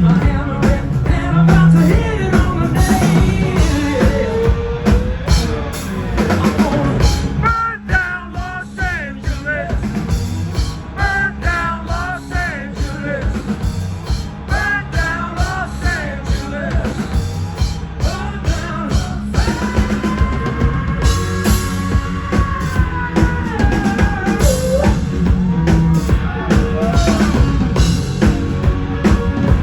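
Rock band playing, with singing over a steady drum-kit beat; a long held note stands out about twenty seconds in.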